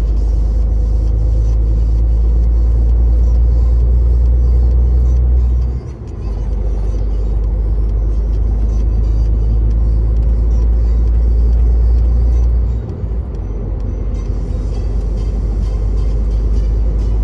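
Truck's diesel engine droning low and steady inside the cab, with road noise; the drone dips briefly twice, about six and about thirteen seconds in.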